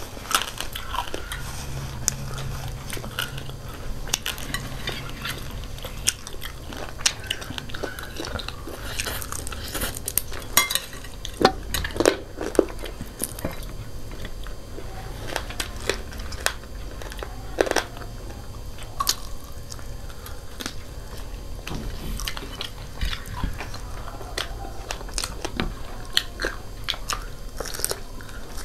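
Two people chewing and biting fried chicken feet and instant noodles, with irregular crunches and sharp clicks throughout, the loudest a few in the middle.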